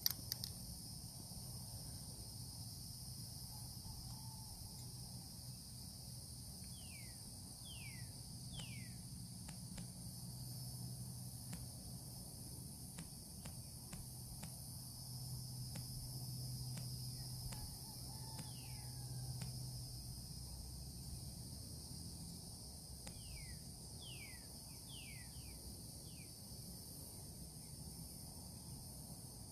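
Steady high-pitched insect chorus, with a bird giving short downward-slurred whistles in groups of two or three.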